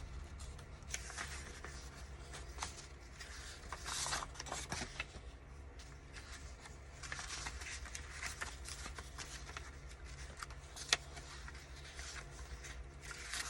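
Sheets of craft paper rustling and sliding against each other as they are sorted through by hand, with one sharp tap about eleven seconds in, over a low steady hum.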